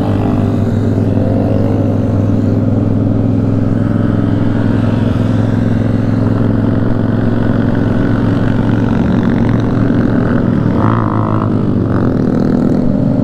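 A CFMOTO 450SR's parallel-twin engine running at a fairly steady pitch while the bike cruises, heard from on board with wind and road noise.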